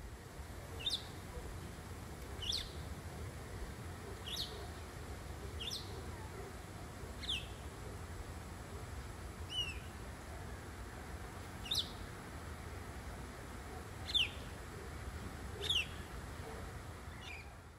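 A bird repeating a single short, high chirp that sweeps quickly downward in pitch, about ten times, one every second and a half to two and a half seconds, over a steady low outdoor rumble.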